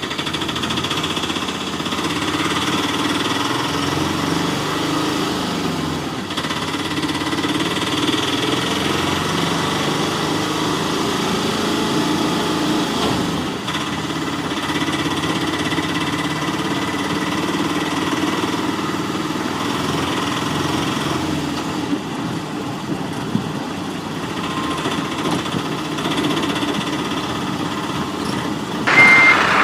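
Battery-powered toy vehicles running, a steady engine-like hum with a thin, high whine. Just before the end a loud reversing beep starts.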